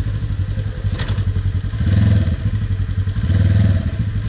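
Polaris RZR 900 side-by-side engine running hard in repeated throttle bursts as it tries to climb a log obstacle, rising and falling three times, with a sharp knock about a second in.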